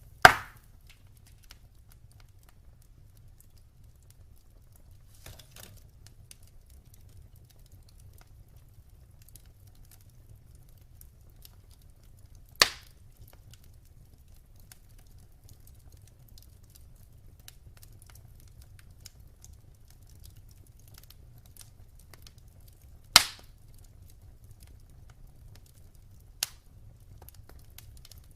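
Wood fire burning in a fireplace: faint crackling over a low steady rumble, broken by four sharp pops from the burning wood, several seconds apart.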